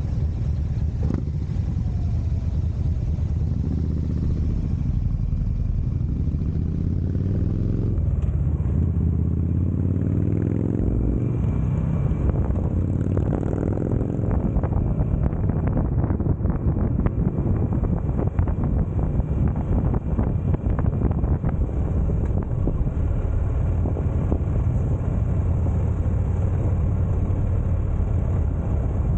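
Buell Firebolt XB12R's V-twin engine under way, rising in pitch twice as it pulls through the gears, then holding a steady note at cruising speed.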